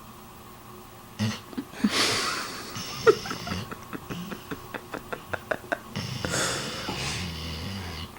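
Sleeping dog snoring in noisy, wheezy breaths, about two seconds in and again near the end, with a quick run of clicks from its mouth in between.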